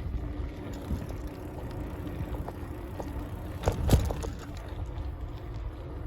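Riding a bicycle: a steady low rumble of wind on the microphone and rolling noise, with one sharp knock about two thirds of the way through.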